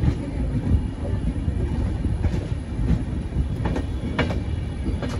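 Passenger train, the 12346 Saraighat Express, running along the track: a steady heavy rumble with a few sharp clacks of the wheels over rail joints.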